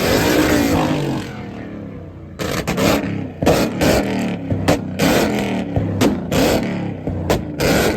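Car engine revving, its pitch falling over the first two seconds. From about two and a half seconds in comes a quick run of sharp cracks between short revs.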